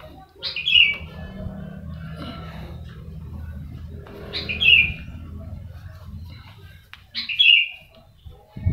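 A bird calling three times, a short, loud, falling call about every three seconds, over a low steady rumble.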